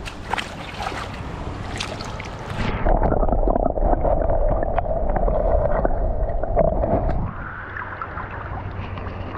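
Water splashing and gurgling at the side of a kayak as a smallmouth bass is released, with a few knocks. About three seconds in, the sound turns loud and muffled for some four seconds, then eases.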